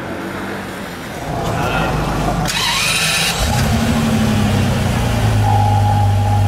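A car engine starting up: a short harsh burst about two and a half seconds in as it fires, then a loud, steady idle.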